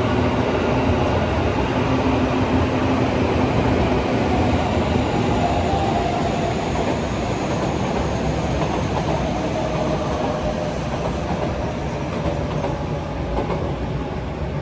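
A JR Kyushu train running past, a steady rail rumble with faint held tones, slowly growing quieter toward the end.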